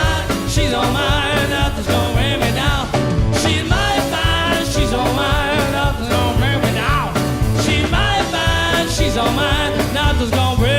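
Swing band music with a steady beat, its melody lines wavering in pitch.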